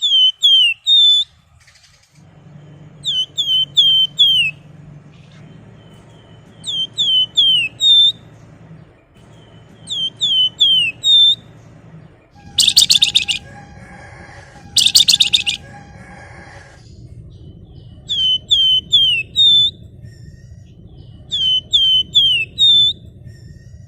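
Flamboyan songbird calling: repeated sets of four quick, downslurred whistled notes, a set about every three to four seconds. Midway come two loud, harsh, buzzy trills. A faint low hum runs underneath from about two seconds in.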